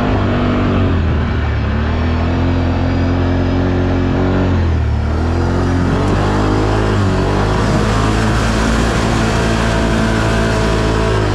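ATV engine running under throttle, its revs dipping and climbing back up about halfway through and again a couple of seconds later.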